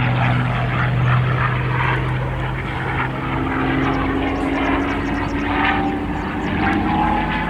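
P-51D Mustang's Packard-built Merlin V12 engine running as the fighter flies its display, a propeller drone over wind and crowd noise. About halfway through, the engine note begins a slow climb in pitch into a whine.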